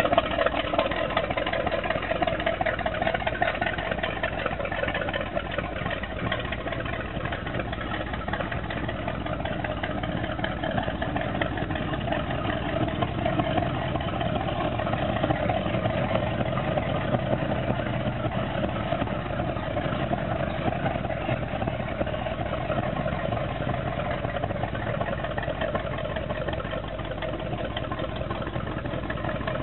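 Boat's 502 big-block Chevrolet V8 idling steadily, with no change in speed.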